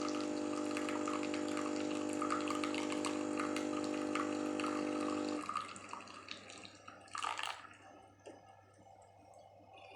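Espresso machine's pump humming steadily while liquid sputters and hisses through, cutting off about halfway through; a brief hiss follows a couple of seconds later.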